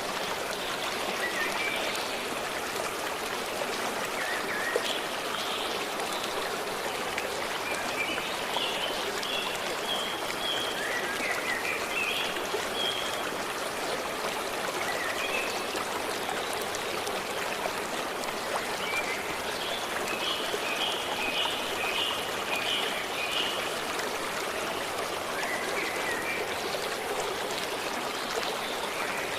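A stream flowing steadily over stones, with birds chirping in short repeated phrases at intervals above the water.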